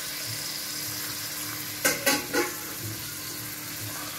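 Cut vegetables (carrot, peas, potato, cauliflower) sizzling in hot oil and onions in a pressure cooker, a steady hiss. About two seconds in come a few sharp clicks of a steel spoon against the pot as they are stirred.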